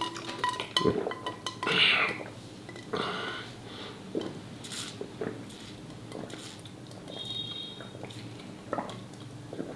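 A person chewing braised pork close to the microphone, with scattered small clicks and clinks of utensils against a dish, and one brief ringing clink about seven seconds in.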